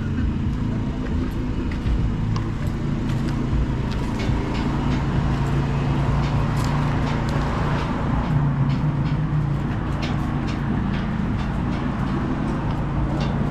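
An engine running steadily with a low hum, with scattered light clicks and taps over it.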